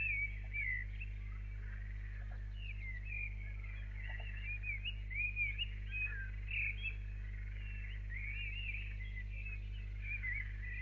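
Small birds chirping and singing in quick, short rising and falling notes throughout, over a steady low electrical hum.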